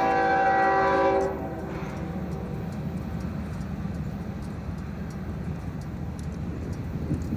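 Norfolk Southern diesel freight locomotive's air horn sounding a chord of several steady tones, which cuts off about a second in. A low rumble of the passing freight train follows.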